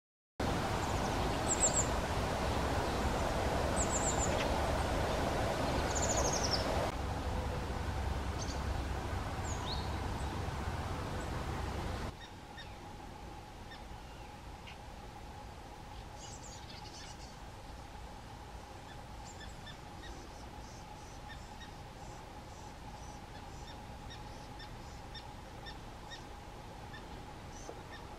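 Eurasian blue tits calling: short, high, thin notes repeated at intervals over steady background noise. The background drops suddenly about twelve seconds in, and the calls continue over a faint steady hum.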